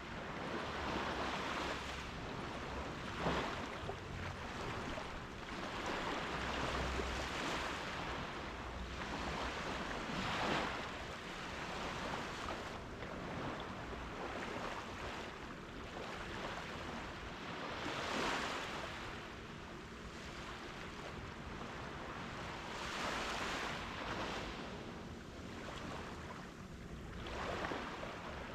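Gentle ocean waves breaking and washing up a sandy beach, the surf swelling every few seconds.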